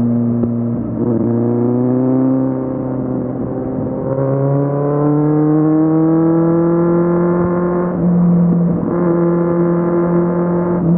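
Kawasaki Z750's inline-four engine under way, its note rising slowly as the bike accelerates, with a short break in the sound about eight seconds in before it runs on steady.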